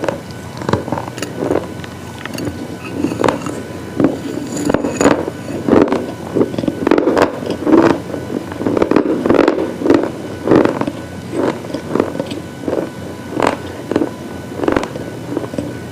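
Close-up crunching of something hard and brittle being bitten and chewed, in a run of short sharp crunches about one or two a second, coming thicker through the middle.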